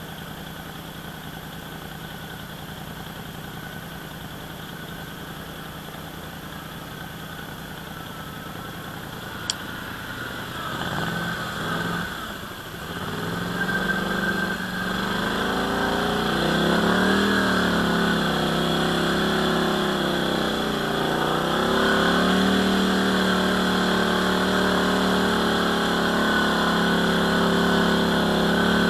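ATV engine running steadily at a low, quiet pace, with one sharp click about a third of the way in. The engine then picks up, its pitch rising and falling as it accelerates, and settles into louder, steady running for the rest.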